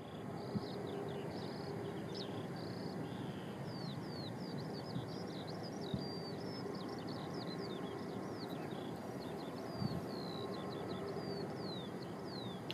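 Small birds singing in a quick run of short, high, falling chirps over a steady low rumble from the distant airfield.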